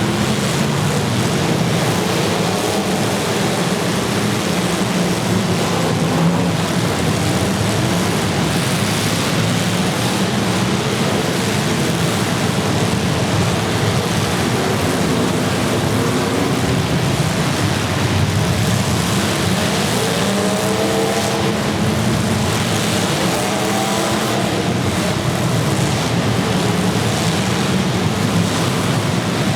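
Several demolition derby cars' engines running together in a loud, steady din, revving up and down, with the clearest revs about twenty seconds in.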